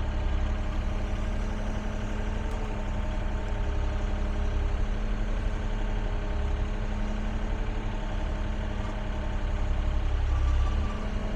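Excavator's diesel engine running steadily, a low rumble with a constant hum.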